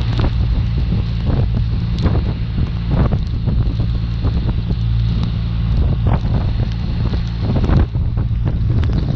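BMW R1200RT's boxer-twin engine running steadily at cruising speed, with heavy wind buffeting on the microphone in irregular gusts.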